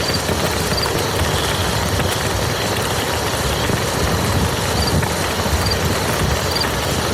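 Steady rain falling on a muddy field: an even, unbroken hiss with a strong low rumble beneath it.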